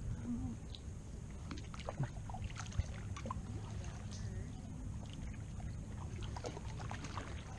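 Kayak being paddled through shallow water: scattered light splashes, drips and small knocks of the paddle over a steady low rumble.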